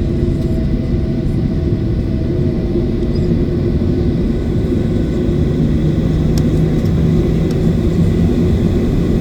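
Boeing 737 jet engines and airframe giving a steady low rumble with a constant hum; a deeper hum grows stronger about halfway through.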